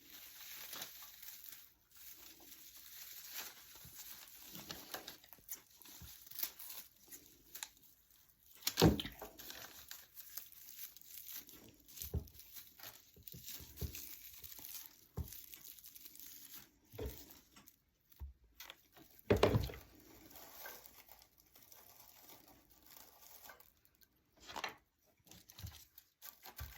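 Dry craft filler rustling and crinkling as it is handled, pressed down and cut with scissors, with two loud sharp clicks, about 9 s and about 19.5 s in.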